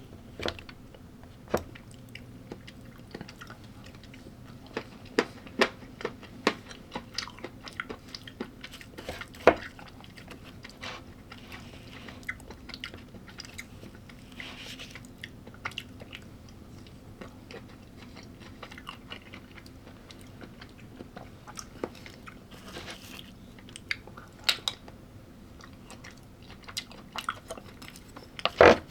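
A person chewing and biting food, with short crisp crunches scattered throughout and a cluster of louder crunches near the end.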